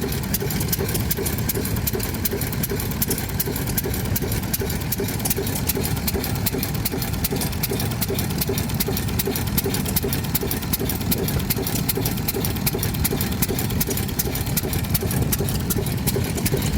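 Vintage stationary engine running steadily at idle with an even, regular firing beat.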